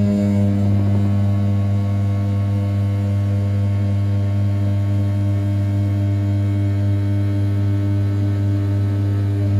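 500 W brushless spindle of an RZ420 desktop CNC mill turning at 6000 rpm while rough-milling the outside profile of A7075 aluminium: a loud, steady hum pitched at the spindle's rotation rate, with the tone shifting slightly right at the start.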